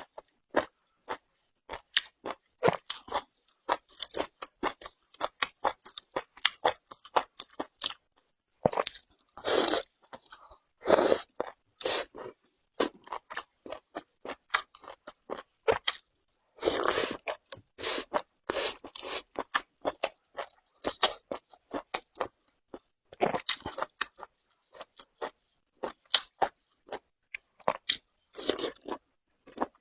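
Close-up chewing of crunchy boiled beef tripe: a rapid, irregular run of crisp crunching clicks, with a few longer, louder stretches of chewing.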